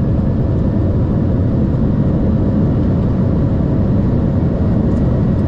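Boeing 747-400 freighter on its landing rollout with the engines in reverse thrust, heard from the flight deck: a loud, steady, heavy rumble of engine and runway noise.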